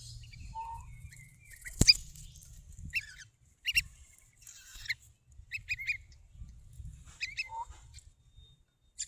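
Small birds giving short, separate chirps every second or so, with one sharp knock about two seconds in.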